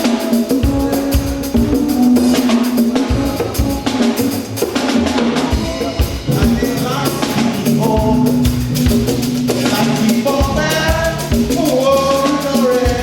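Church music with a drum kit and percussion keeping a steady beat over bass and other instruments, with singing voices coming in near the end.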